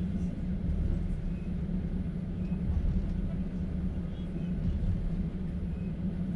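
Steady low rumble and hum of a Russian platskart passenger train carriage heard from inside, the train running on the rails.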